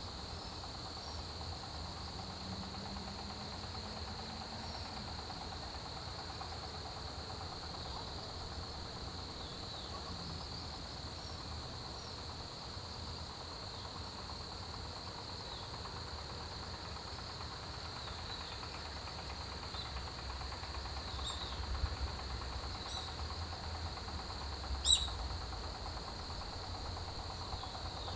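A chorus of autumn grass insects, crickets among them, chirring steadily: one continuous high trill with a faster, evenly pulsing trill above it. A single sharp click near the end is the loudest sound.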